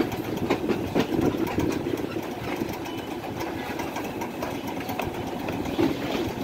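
Passenger train moving slowly, heard from on board: a steady mechanical rumble with irregular rattles and clicks.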